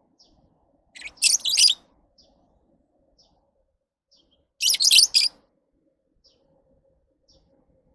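Lovebirds chirping: two bursts of rapid high chirps, about a second in and about five seconds in, with a few faint single chirps between.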